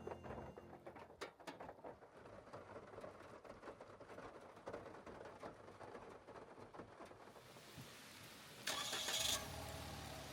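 A car engine starting near the end: a short, loud burst of cranking, then a low, steady idle, after faint scattered clicks.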